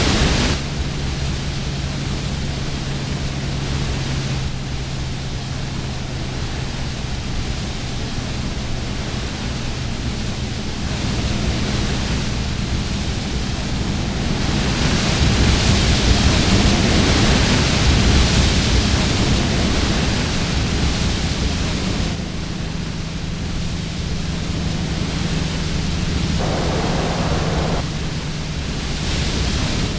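Vehicle driving at speed: steady road and wind noise over a low engine drone, the rushing swelling for a few seconds in the middle and easing again.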